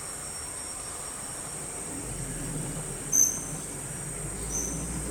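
Steady high-pitched insect drone, with two short high chirps about three and four and a half seconds in.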